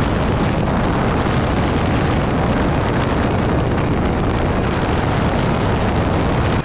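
Husqvarna Svartpilen 401's single-cylinder engine running loud and steady through an aftermarket Leovince GP One slip-on exhaust.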